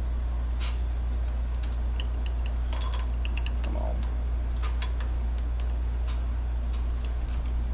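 Scattered light metallic clicks and taps of hand tools and parts on the valve train of a Briggs & Stratton engine, as a rocker arm is worked off against its compressed valve spring. A steady low hum runs underneath, and the loudest clicks come about three and five seconds in.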